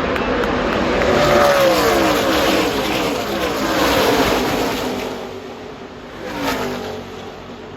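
NASCAR Craftsman Truck Series race trucks passing at speed. Their V8 engines drop in pitch as a pack goes by, then fade. One more truck passes about six and a half seconds in.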